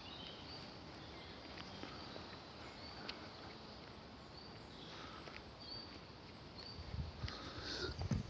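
Small birds calling: short, thin, high notes repeated every second or so over quiet outdoor background, with a low rustle near the end.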